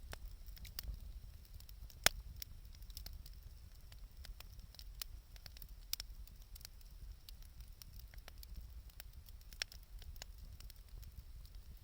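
Wood campfire crackling with scattered sharp pops, the loudest about two seconds in, over a low steady rumble.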